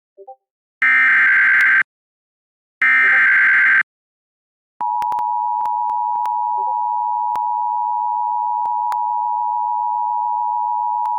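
Emergency Alert System broadcast: the last two of three one-second screeching SAME digital header bursts, then about a second of silence. The steady two-tone EAS attention signal then starts about five seconds in and runs on. It announces a severe thunderstorm warning.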